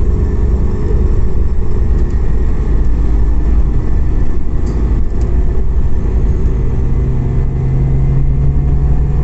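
Inside the cabin of a Scania OmniCity CNG city bus under way: a steady low engine and road rumble, with a steady low hum coming in about six and a half seconds in.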